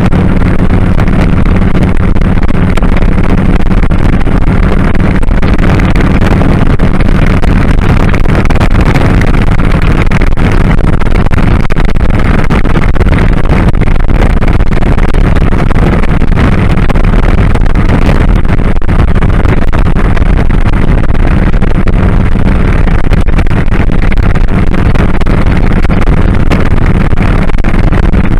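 2001 Kawasaki Drifter 1500's V-twin engine running steadily under way, with wind and road noise rushing over the microphone.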